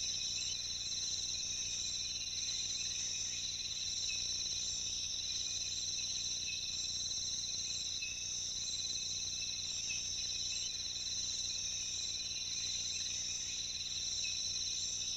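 Rainforest insect chorus: a steady, high, shrill chirring of several held tones that does not let up.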